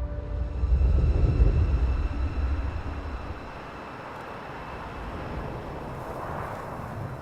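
A motorcycle rumbling past, loudest between about one and two and a half seconds in, then fading into a steady rushing noise.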